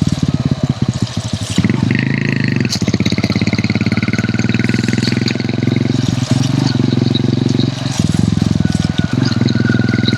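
Hero Honda CD100's single-cylinder four-stroke engine running under way: a steady, rapid pulse of firing strokes that dips briefly a few times.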